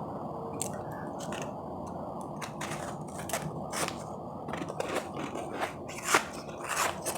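Powdery refrozen ice chips crunching and crackling in sharp, crisp clicks, sparse at first and coming thick and fast from a couple of seconds in, over a steady low background hum.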